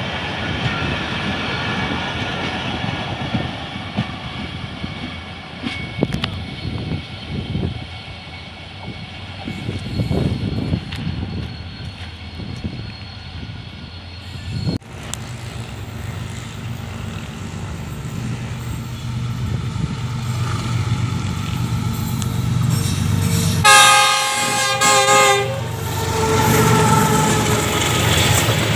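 Passenger coaches rolling past with wheels rumbling and clattering on the rails. After a cut, a diesel locomotive hauling hopper wagons runs past with a steady low engine hum and sounds its horn for about two seconds, a little past two-thirds of the way through.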